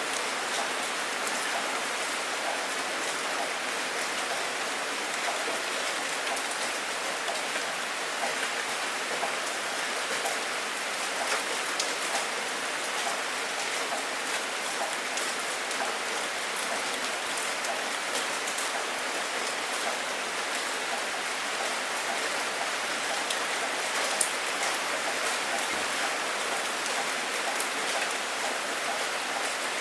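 Steady rainfall: an even hiss of rain with many individual drops striking a surface, and a couple of louder single drop hits, one about eleven seconds in and one near twenty-four seconds. No thunder.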